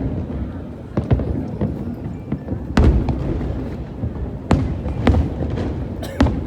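Aerial fireworks shells bursting in a display: a string of sharp booms, one every second or so, the strongest about three seconds in, over a steady rumble of background noise.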